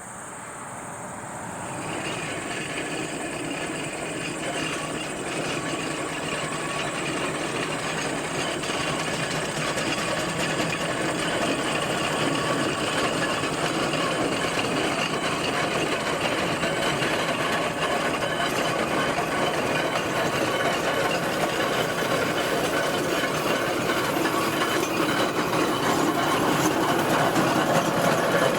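Steam traction engine running along the road, a steady mechanical clatter that grows gradually louder.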